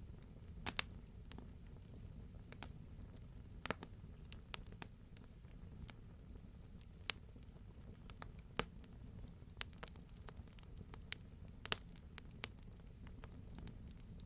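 Campfire crackling: burning logs give off about ten sharp, irregular pops, two of them close together near the start, over a steady low rumble of the fire.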